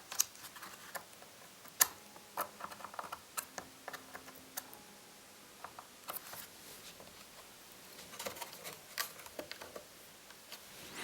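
Irregular light clicks and taps of laptop parts being handled, a few seconds apart.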